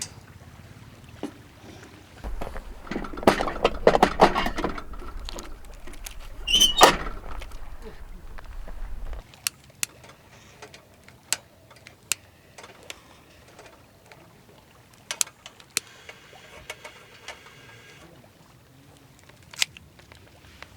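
Handling noises: a busy stretch of rustling, clicks and knocks for several seconds, with one sharp louder knock in the middle, then scattered single clicks and taps.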